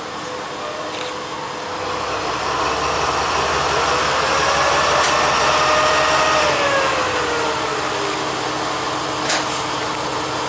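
A train running past on the track, its noise building up and carrying a whine that rises in pitch and then falls away, with a couple of sharp clicks.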